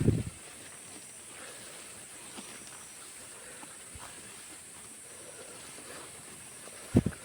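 Two short, dull, low thumps, one right at the start and one near the end, over a steady faint high-pitched hiss.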